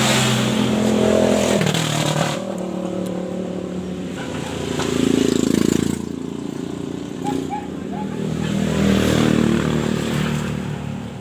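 Honda CRF150 motorcycle engine running under way, the revs dropping about two seconds in and then rising and falling again twice.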